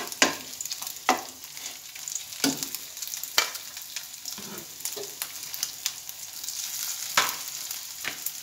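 Egg-and-chicken burger patty mixture sizzling steadily in shallow oil in a nonstick frying pan. A spatula scrapes and knocks against the pan about six times as the patty is pushed into shape.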